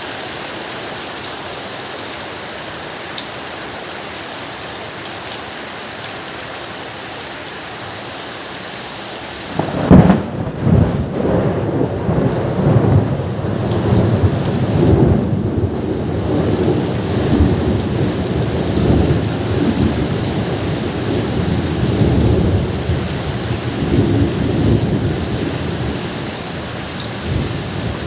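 Steady rain falling, then about ten seconds in a sudden loud thunderclap that rolls on as rumbling thunder over the rain for the rest of the time.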